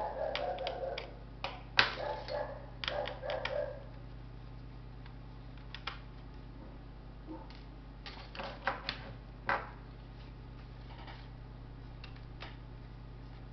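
Clicks, taps and scrapes of plastic laptop parts and small tools being handled during disassembly, denser in the first few seconds and then sparse, over a steady electrical hum.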